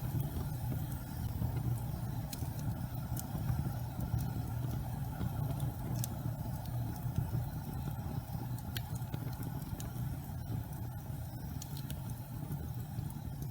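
Gas fireplace burning with a steady low rumble of flame, with a few faint crackles and pops scattered through it.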